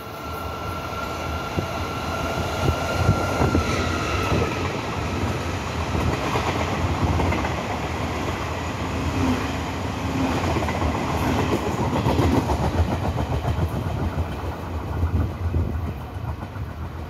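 Locomotive-hauled passenger train running past the platform: a continuous low rumble with the wheels clattering over the rail joints. A high steady whine sounds over the first few seconds and rises briefly about four seconds in.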